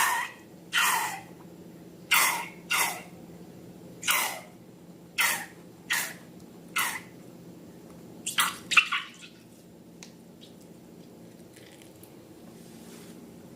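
Wet squelching sounds of slime being squeezed and handled: eight short bursts, each sliding down in pitch, about one a second, then a quick cluster of three near the nine-second mark, followed by only faint small sounds.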